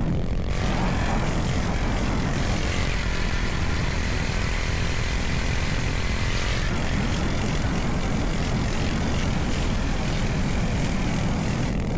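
Minibike's small engine running steadily while under way, under a dense low rumble of noise.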